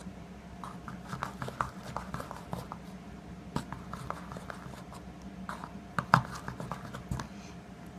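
A spoon stirring shaving foam into glue in a container, making irregular clicks and scrapes, with one sharper click about six seconds in.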